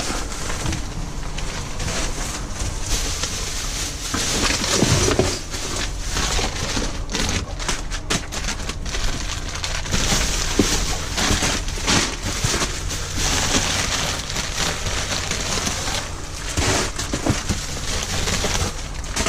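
Rustling and crackling of trash bags and packaged items being rummaged through and handled in a dumpster, irregular crinkles and knocks over a steady low hum.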